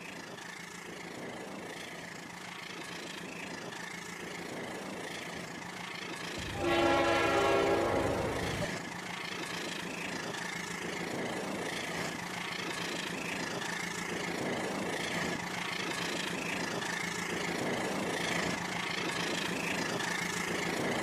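Rail King toy train running with a steady motor hum and faint regular clicks from the track. About six seconds in, its built-in horn sound effect plays loudly for about two seconds.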